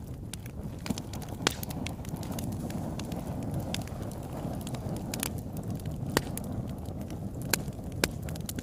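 Fireplace fire crackling: irregular sharp pops and snaps over a steady low rush. The loudest pops come about a second and a half in and twice near the end.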